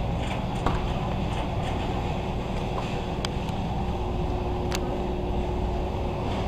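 Steady low rumble of a warehouse store's background noise, with a faint steady hum and a few sharp clicks.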